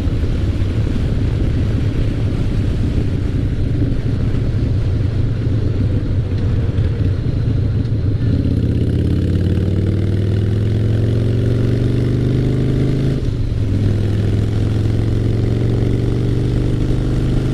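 2003 Harley-Davidson Fat Boy's Twin Cam 88 V-twin, loud through Paughco slash-cut drag pipes, riding along steadily, then accelerating from about eight seconds in with the engine note rising. About thirteen seconds in the note briefly drops for a gear change, then climbs again.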